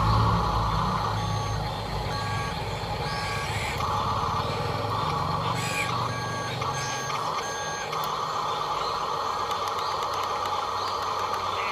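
Electronic reversing beeper of a radio-controlled dump truck, beeping about once a second in two runs, over a steady whirr from the model's electric drive.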